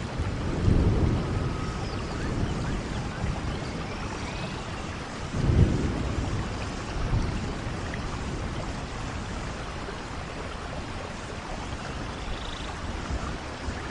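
Steady rainfall in a rainforest, with low rumbles of thunder swelling about a second in and again a little past the middle.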